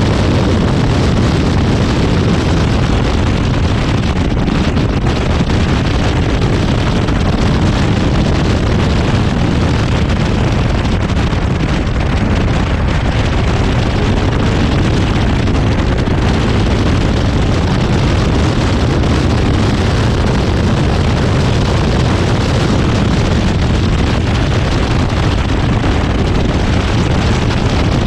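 Zenos E10R's turbocharged four-cylinder engine running at racing speed, loud and steady, heard from the open cockpit with wind buffeting the microphone.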